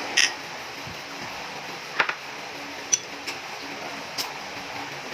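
Eating sounds at a meal table: about five short, sharp clicks and clinks, spread out over a few seconds.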